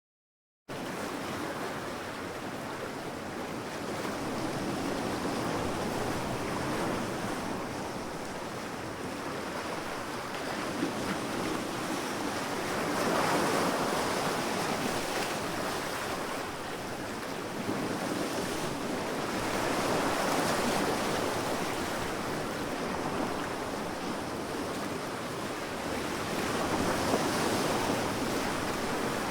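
Sea waves washing onto a sandy beach: a steady surf hiss that swells and eases as each wave breaks, roughly every seven seconds. It cuts in suddenly after a brief moment of silence.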